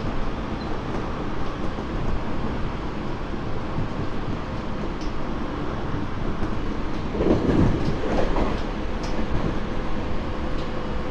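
Running noise of a Tobu 30000 series train heard from inside its motor car, a Hitachi IGBT-VVVF unit: a steady rumble of wheels on rail with a faint steady whine. A louder rush comes about seven seconds in and fades a second or so later.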